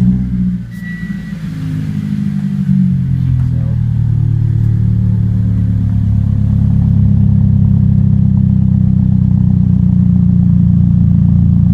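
2014 Toyota Corolla's four-cylinder engine, just started, running through a freshly installed cat-back exhaust. It runs fast at first, its pitch dropping over the first few seconds, then settles into a steady idle.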